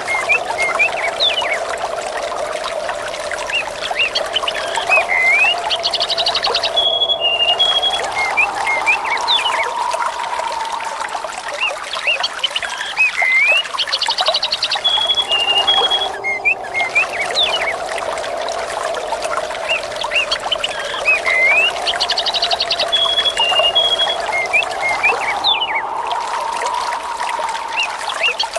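Running water trickling and pouring steadily, with birds chirping and calling over it. The same stretch of sound repeats about every nine seconds, a looped recording.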